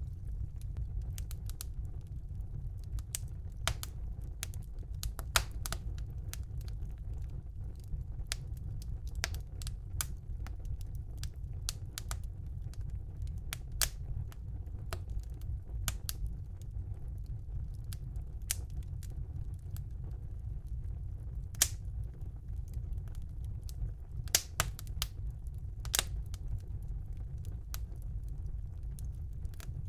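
Wood fire burning in a fireplace: irregular sharp crackles and pops, a few a second, over a steady low rumble of the flames.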